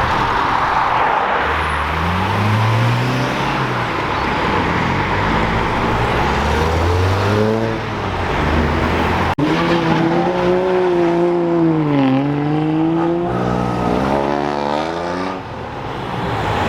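Car engines revving and accelerating away, their pitch climbing and dropping as they go through the gears, over a steady background hiss. There are two separate runs, the second starting about nine seconds in.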